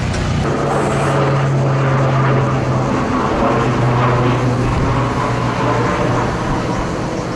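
Propeller engines of a firefighting aircraft running steadily: a steady low hum with evenly spaced overtones.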